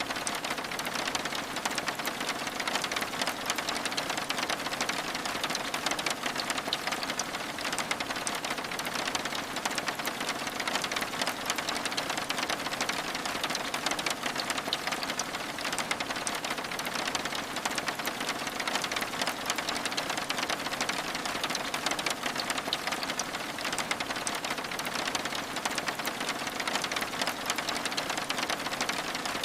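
Steady rain, a dense, even patter of drops on window glass with no pauses or changes.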